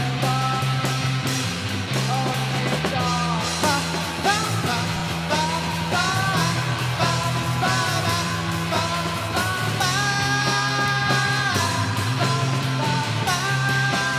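Rock band playing live, a singer's voice gliding over steady bass notes, guitar and drum hits.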